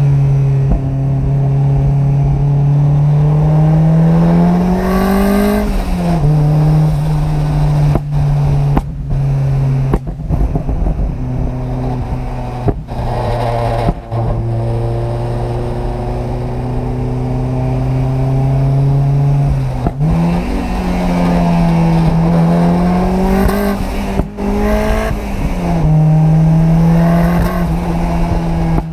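Turbocharged Mazda MX-5 NB's 1.6-litre four-cylinder with a large GT3582 turbo, driving: the revs climb and then drop several times as it accelerates through the gears.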